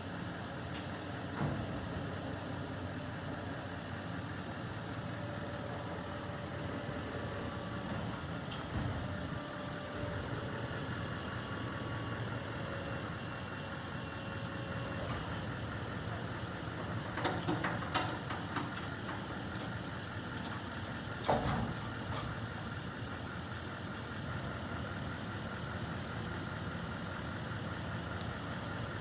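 Garbage truck engine idling steadily, with a cluster of sharp knocks about two-thirds of the way through and one more knock a few seconds later.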